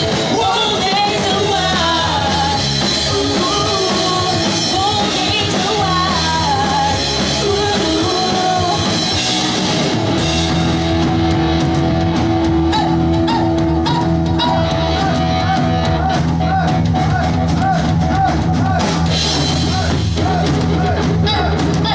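Live pop-punk band playing loud, with a singer over distorted guitars, bass and drum kit. The drumming gets busier about halfway through.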